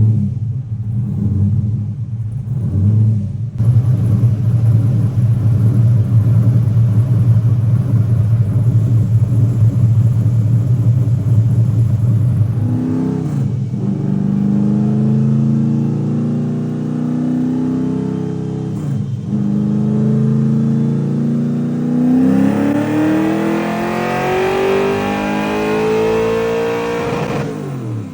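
LS3 6.2-litre V8 in a drift car running on a chassis dyno: a steady drone, two brief dips as it shifts up through the gears about halfway through, then a wide-open-throttle dyno pull climbing steadily in pitch before the throttle is closed near the end.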